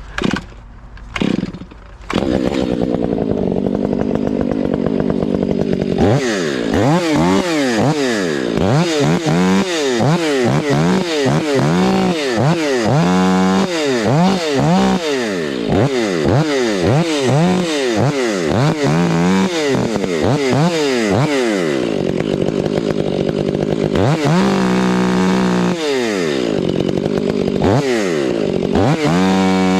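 Chainsaw engine starting to run about two seconds in after a few short knocks, then revved up and down over and over in quick throttle bursts, with a couple of steadier stretches near the end.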